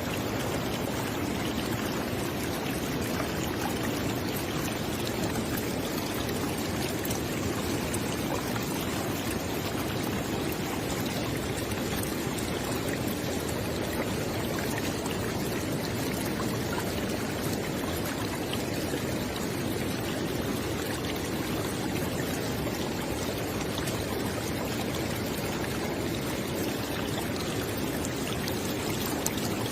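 A river flowing steadily, a constant rush of water with fine splashing and burbling.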